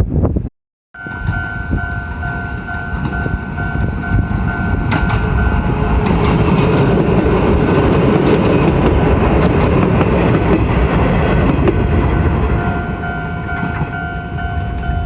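Train passing a level crossing: a broad rumble with wheel clatter swells to its loudest in the middle and eases off, while the crossing's warning signal rings as a steady two-pitch tone before and after the loudest part. A short gap of silence comes about half a second in.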